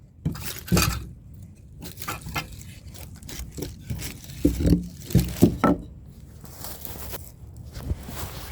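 Irregular rustling, scraping and knocking of someone moving about and handling things, with a cluster of louder knocks about a second in and again around the middle.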